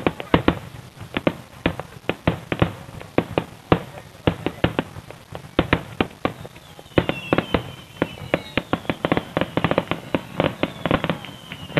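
Fireworks display finale: shells exploding in a rapid barrage of sharp bangs, several a second. About halfway through, high thin tones gliding downward join the bangs.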